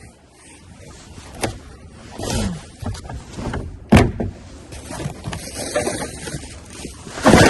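Rummaging through trash: items being shifted and dragged with rustling and scraping, broken by a few sharp knocks, the loudest about four seconds in and another near the end.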